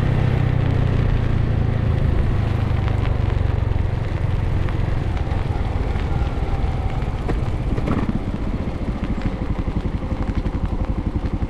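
Suzuki TU250x single-cylinder engine running, the strong engine note easing off over the first few seconds and settling into an even, pulsing idle near the end, with the hiss of heavy rain.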